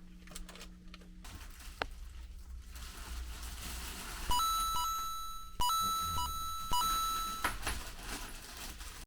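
Electronic beeps and a held tone, starting about four seconds in, with three sharp onsets that each fade, stopping about seven and a half seconds in.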